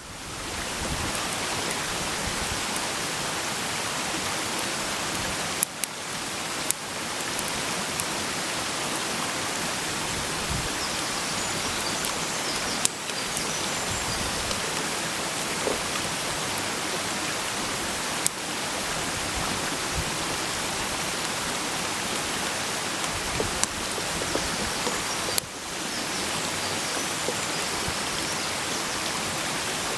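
Food sizzling in a frying pan over a campfire: a steady hiss with a few sharp pops.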